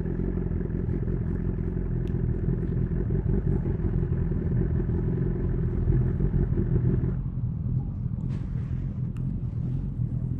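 BMW S1000RR inline-four engine running steadily at low revs through an SC Project CR-T titanium exhaust. About seven seconds in, the higher part of the engine note drops away and the lower note carries on.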